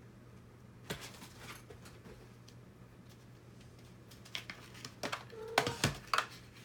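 Plastic robot-kit parts being handled and fitted together: scattered light clicks about a second in, then a busier run of sharp clicks and knocks from about four to six seconds in, over a steady low hum.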